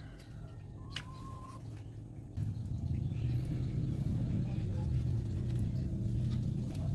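A low engine rumble that gets clearly louder about two and a half seconds in, with a click and a brief high tone about a second in.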